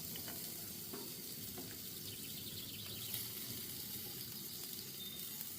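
Chicken legs and pork steak sizzling steadily as they fry, with a few small pops.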